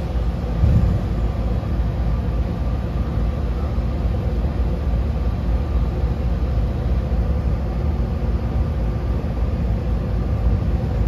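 Steady low rumble of a Yokkaichi Asunarou Railway 762 mm narrow-gauge electric train running along the line, heard from inside the passenger car, with a brief low thump about a second in.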